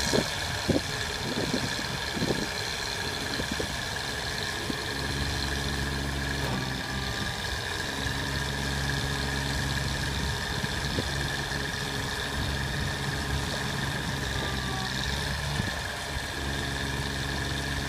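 An engine on a 1998 C7500 bucket truck idling steadily, with a few sharp clicks in the first couple of seconds.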